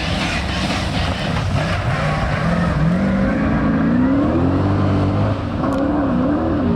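Rally car engine accelerating hard, its note climbing in steps through the gear changes, then rising and falling as the driver works the throttle.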